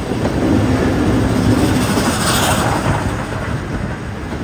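An EF65 electric locomotive hauling the D51 steam locomotive and a 12-series coach rolls in close past the platform with a steady rumble of wheels on rail. There is a brief brighter hiss about two seconds in.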